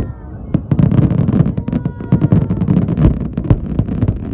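Fireworks going off: a rapid, irregular string of sharp bangs and crackles over a dense low rumble. The sound dips briefly at the start and is back to full strength about half a second in.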